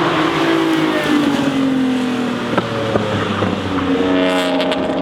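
A car engine running loudly. Its pitch slides down over the first couple of seconds, then rises again near the end as it revs up, with two short clicks in the middle.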